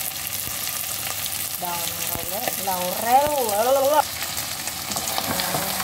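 Chicken livers with onions and ginger sizzling as they fry in a pot, a steady hiss throughout. A voice sounds briefly near the middle.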